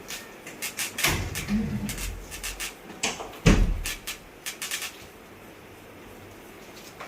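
A run of clicks and knocks, with two heavier thumps about one second and three and a half seconds in, like a door or panel being handled, then quiet.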